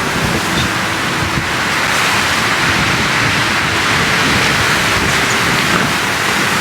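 Strong wind blowing, a steady rushing hiss that swells a little in the middle.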